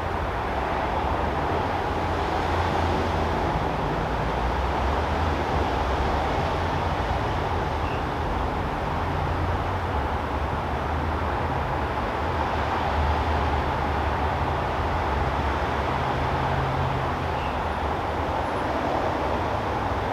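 Steady backyard ambience: a continuous low rumble under an even hiss, with no distinct events.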